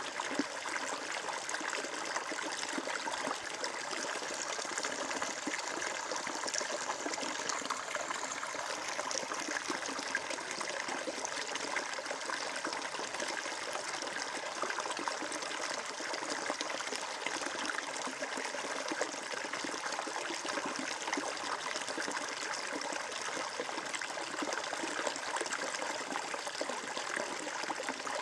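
Flowing water trickling and splashing steadily, like a small stream running over stones.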